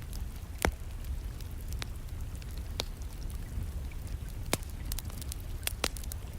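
Wood fire crackling in a fireplace, with sharp pops at irregular moments (the loudest a little over half a second in), over a steady low rumble and the hiss of distant rain.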